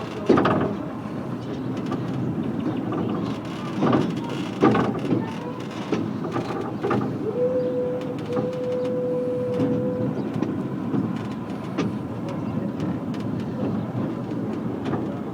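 Heritage train running along the line, heard aboard: a steady rumble of the running gear with occasional sharp knocks. A single steady high tone is held for a couple of seconds in the middle.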